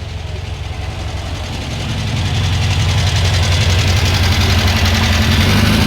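A car engine running at a steady idle, growing louder about two seconds in and then holding.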